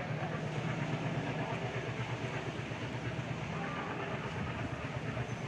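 Departing passenger train rolling out of the station: a steady, low rumble.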